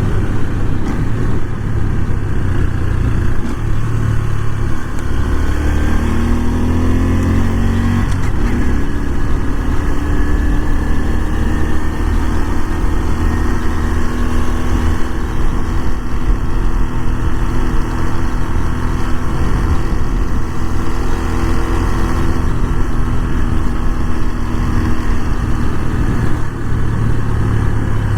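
Honda Super Cub 125's single-cylinder four-stroke engine running under way, heard from the bike over a heavy low rumble. About six seconds in, its pitch rises for a couple of seconds as it accelerates, then settles to a steady cruising note.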